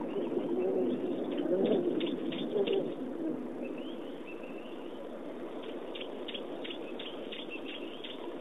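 Wild birds calling: low cooing in the first three seconds or so, with runs of sharp high chips and a short twittering phrase in the middle.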